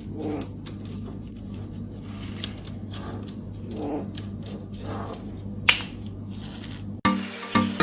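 Irregular sharp clicks and taps over a steady low hum. Electronic music cuts in suddenly near the end.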